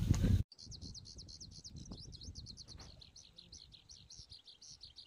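A loud low rumble cuts off abruptly half a second in. Then comes a steady run of quick, high-pitched bird chirps, several a second, over a faint low rumble.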